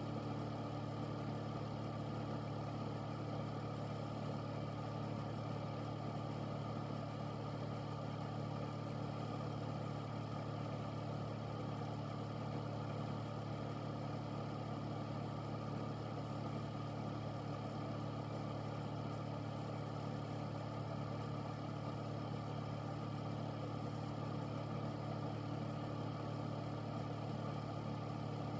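Air purifier running steadily: an even fan hum with a low motor drone under a smooth airy hiss.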